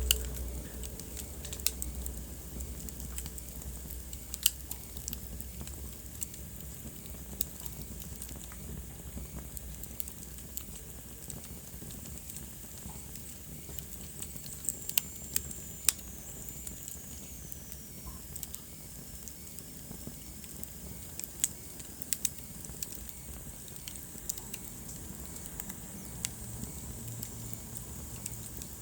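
Wood fire in a fireplace crackling, with irregular sharp pops over a steady low hiss of burning. About halfway through, a faint high whistle falls slowly in pitch.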